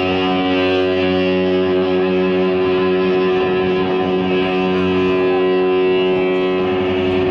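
Live rock band music: electric guitar holding a sustained, steady chord as the song opens, with no singing yet.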